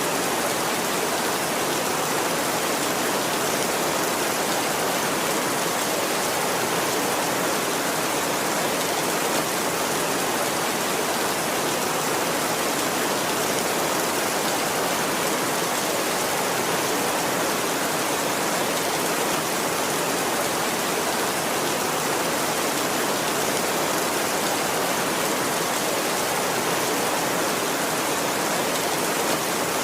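Heavy rain falling steadily, a dense, even hiss with no thunder or other sudden sounds.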